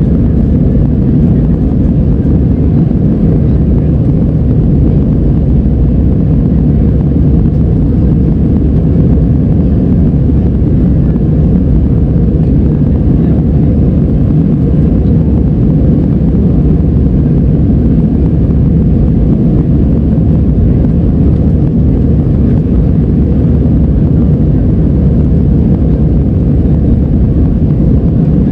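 Steady, loud drone of an airliner's jet engines and rushing air heard inside the passenger cabin.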